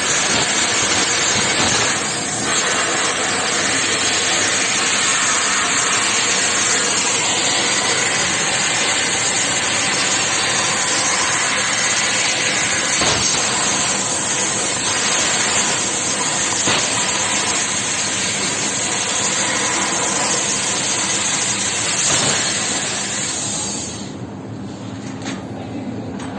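CNC metal-cutting machine running with a loud steady hiss, which stops sharply near the end, leaving a quieter hum with a few clicks.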